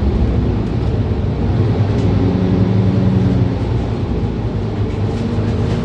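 Mercedes-Benz Citaro C2 city bus engine running low as the bus halts at a stop. A steady drone that eases slightly about halfway through.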